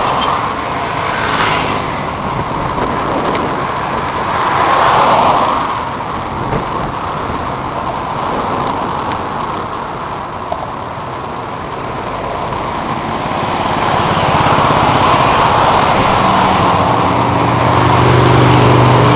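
Motorcycle engines running on the road, under a steady rush of wind and road noise. An engine hum grows louder over the last few seconds.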